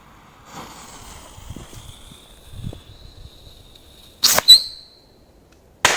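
Whistling firework rockets going off: a shrill whistle, rising slightly in pitch, lasts about three and a half seconds, then two sharp bangs in quick succession, and another loud bang near the end with a long echoing tail.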